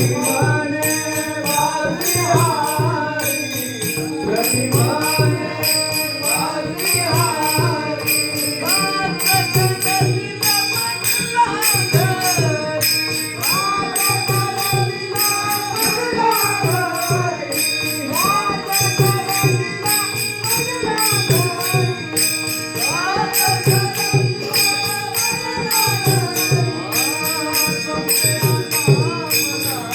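Marathi Varkari devotional bhajan: a male lead voice sings a winding melody over steady sustained drone tones, with small hand cymbals (taal) clashing in an even rhythm and low hand-drum beats.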